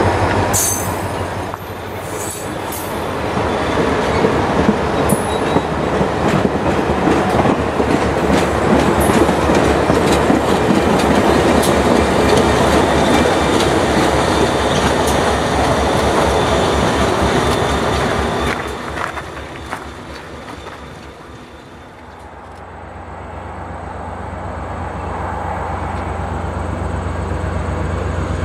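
Passenger coaches of a train rolling past close by, the steel wheels clicking over rail joints, with brief high wheel squeals near the start. The train noise fades about 20 seconds in. Then the low drone of an approaching diesel locomotive grows steadily louder.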